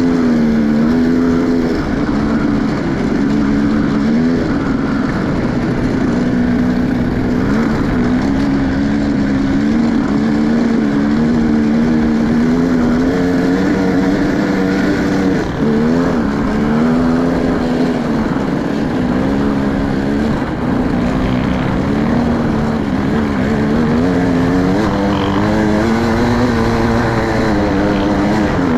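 Enduro motorcycle engine running while being ridden, its pitch rising and falling continuously with the throttle.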